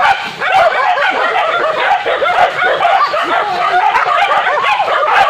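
A pack of village hunting dogs yelping and barking over one another without a break, the sound of dogs baying on a wild boar.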